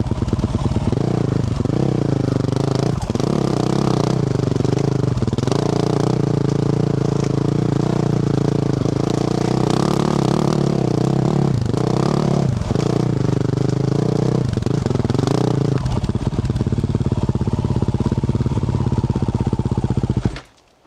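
2024 Yamaha YZ450F's single-cylinder four-stroke engine with a Yoshimura RS-12 exhaust, ridden off-road: the revs rise and fall again and again with throttle and gear changes. For the last few seconds it runs steadily, then the sound cuts off suddenly near the end.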